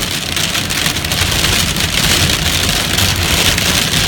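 Heavy rain and hail, stones up to about an inch across, pelting down in a dense, steady clatter of countless small impacts, with a low rumble underneath.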